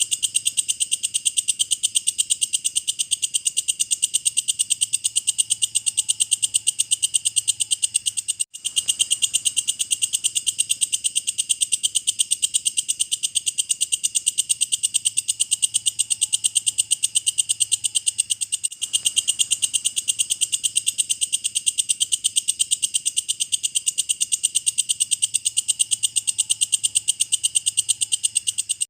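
Walang kecek, a bush-cricket (katydid), calling with a steady, shrill train of rapid, evenly spaced ticking pulses. The call breaks off briefly twice, where the recording loops.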